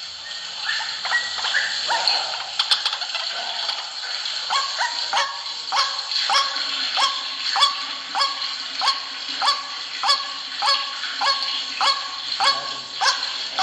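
White-breasted waterhen calling a repeated, monotonous 'kru-ak', each note dropping in pitch. The calls are irregular at first, then settle into an even series of about three notes every two seconds, over a steady high-pitched background whine.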